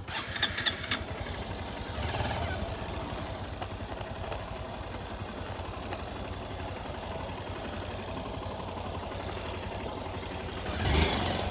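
Motorcycle engine running at low revs while going downhill on a rough dirt trail, with clattering over bumps in the first second.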